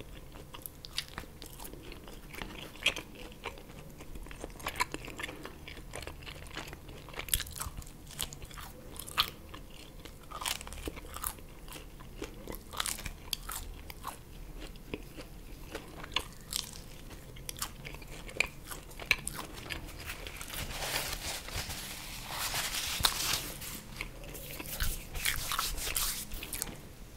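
Close-miked chewing and crunching of pizza crust, with many irregular crisp bites and crackles. A denser, louder stretch of crunching noise comes about twenty seconds in.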